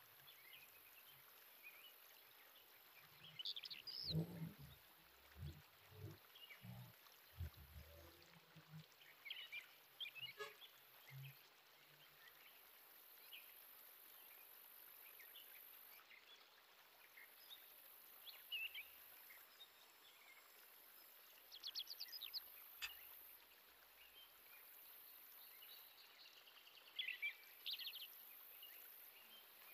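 Near silence with faint high chirps of small birds a few times, including quick trills about two-thirds of the way in and again near the end; soft low thumps come now and then in the first third.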